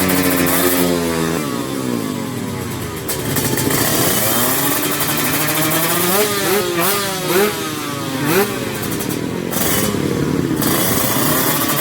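Honda Karisma motorcycle's single-cylinder four-stroke engine being revved while it is tuned. The pitch drops after about a second, climbs again, then rises and falls in several quick throttle blips from about six to eight and a half seconds in, before holding steadier near the end.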